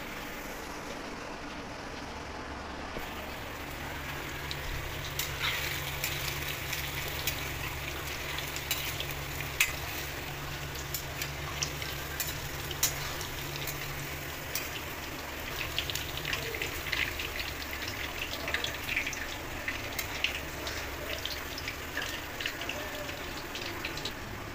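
Paneer cubes sizzling in hot oil in a pan, with many small sharp crackles and pops through the frying. A steady low hum runs underneath for much of the time.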